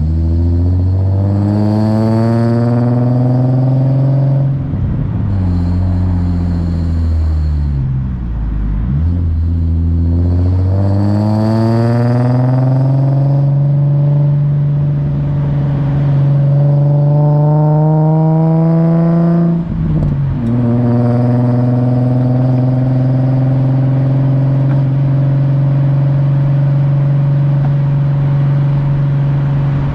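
Nissan 350Z's 3.5-litre V6 through an Invidia Gemini straight-through exhaust, the engine note rising and falling with the revs, then holding steady, with a short drop in pitch about two-thirds of the way through.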